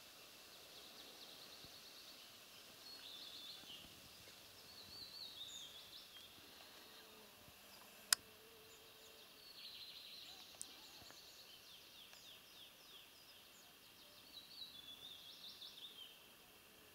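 Faint songbird song: short phrases of quick, stepping, falling notes repeated several times. A single sharp click about halfway through is the loudest sound.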